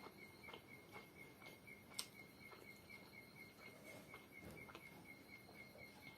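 Faint cricket chirping steadily, about four even pulses a second, with scattered soft clicks, the sharpest about two seconds in.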